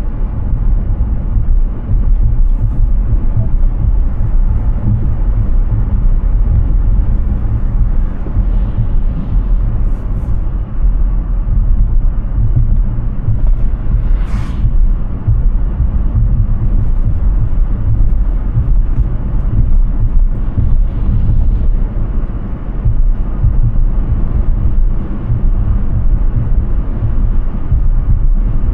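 Steady low rumble of tyre and wind noise from a Hyundai Ioniq 6 electric car driving at speed, with no engine note, and a short hiss about halfway through.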